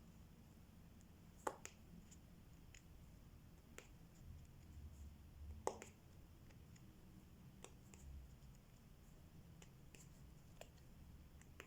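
Faint, scattered small clicks and taps of diamond-painting work: the drill pen picking up and pressing resin drills onto the canvas, with two louder taps about one and a half seconds in and near six seconds.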